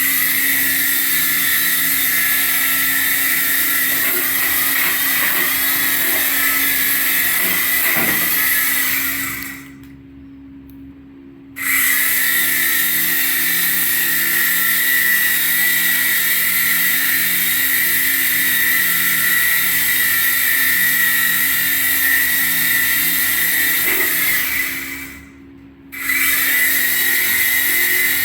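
Syma toy RC helicopter's small electric motors and rotors running with a steady high whine. It winds down about ten seconds in, starts again abruptly a couple of seconds later, and winds down and restarts once more near the end.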